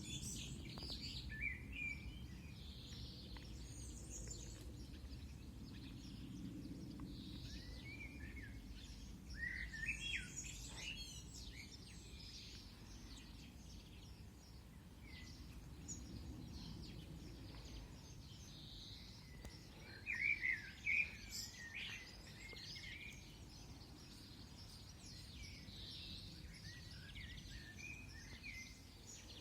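Small birds chirping in scattered bursts over a steady low background rumble, with the loudest chirping about ten seconds in and again about twenty seconds in.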